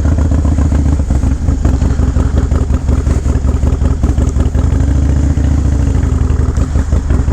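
Harley-Davidson Low Rider S V-twin engine running through a loud aftermarket exhaust, its pitch rising a little about five seconds in and easing back down.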